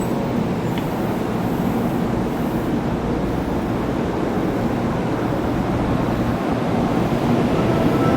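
Shinkansen train at the platform: a steady rumble with faint hums, growing a little louder near the end.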